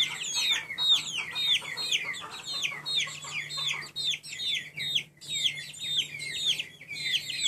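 A group of young chicks peeping continuously, many short high calls that fall in pitch, several a second and overlapping, over a faint steady low hum.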